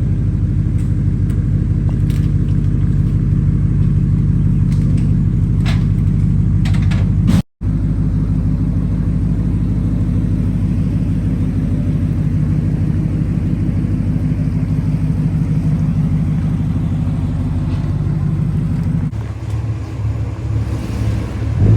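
Car engine running at a steady idle close by: a loud, even low rumble with a rapid pulsing beat and no revving. It cuts out for an instant about seven seconds in and eases off a little near the end.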